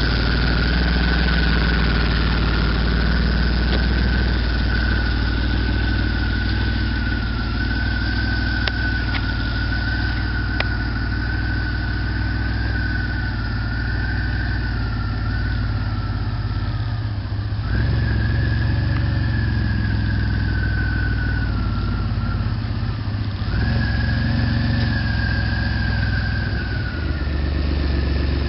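Turbocharged DeLorean's PRV V6 idling through a custom stainless steel exhaust. A steady high whine rides over the idle, slowly sagging and stepping back up twice, about two thirds of the way through and again near the end.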